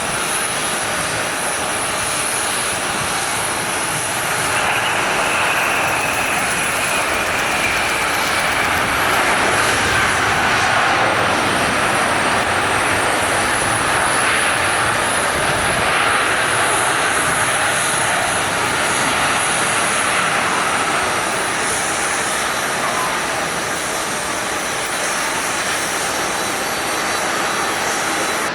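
Boeing 767-300ER jet engines running as the airliner passes on its landing, a steady loud jet roar with a whine that falls in pitch as it goes by.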